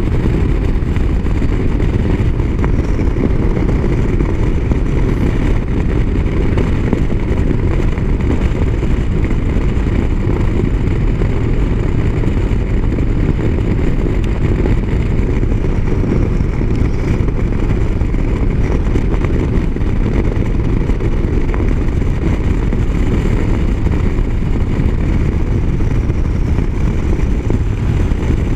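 Motorcycle riding at highway speed: a steady rush of wind and road noise over the engine, heavy and low, without change.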